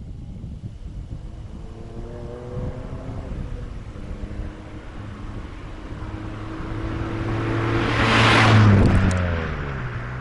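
A car accelerating toward and passing close by, its engine note climbing and then dropping as it goes past, loudest about eight and a half seconds in.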